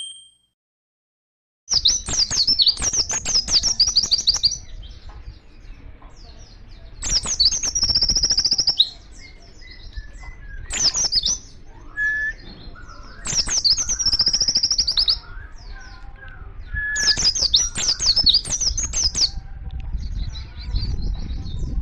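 White-eye (pleci) singing in loud bursts of rapid, high chattering trills, each lasting one to two seconds, with short pauses and softer calls between them. The song starts after about a second and a half of silence.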